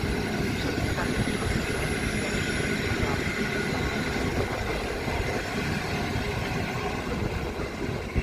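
Locomotive-hauled passenger train rolling out of the station, a steady rumble of wheels on the track.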